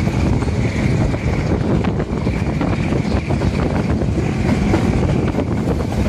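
Passenger train running along the track, heard from an open carriage window: a steady rumble of wheels on rail with faint ticks, and wind buffeting the microphone.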